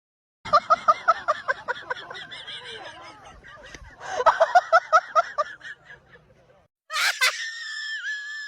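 Two bursts of rapid, high-pitched laughter, each a quick run of short 'ha' pulses. Near the end comes a sharp burst and then a steady high-pitched tone.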